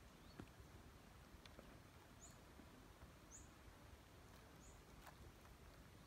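Near silence over faint outdoor ambience, with a small bird giving three short high chirps about a second apart and a few faint clicks.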